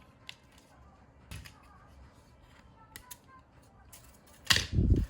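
Scattered light clicks and taps, then a louder, longer clatter with a low thud about four and a half seconds in.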